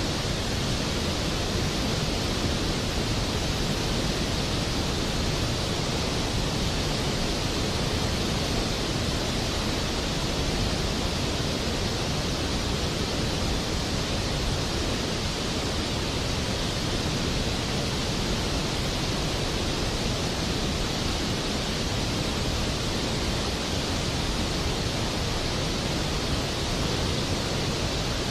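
Steady rain: an even, unbroken hiss with no thunder or single drops standing out.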